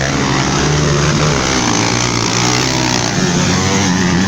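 Engines of several motocross motorcycles racing on the track, overlapping, their pitch rising and falling as the riders throttle up and back off.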